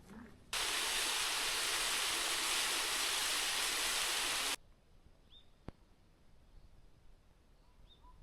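Rushing water, a steady hiss, that cuts in about half a second in and stops abruptly some four seconds later. It is followed by quiet outdoor air with a single faint click and two short, faint chirps.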